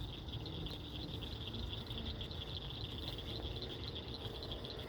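Crickets chirping in a steady, rapidly pulsing high trill, over a low rumble.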